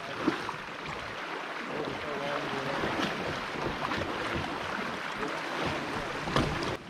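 Water sloshing and splashing around a kayak on a river, with scattered knocks and wind buffeting the microphone; the sharpest knocks come about a third of a second in and again near the end.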